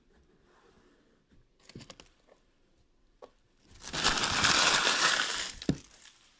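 Trading-card box packaging being crumpled and crushed by hand. A few light handling clicks come first, then a loud crinkling crush that lasts about two seconds and ends in a sharp tap.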